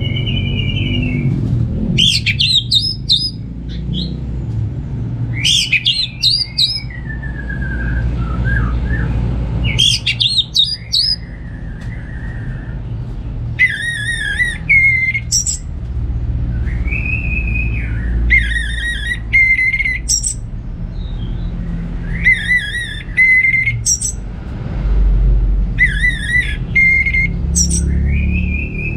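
Orange-headed thrush singing: repeated song phrases a few seconds apart, mixing clear whistled slurs with quick, high, rattling twitters. A steady low rumble runs underneath.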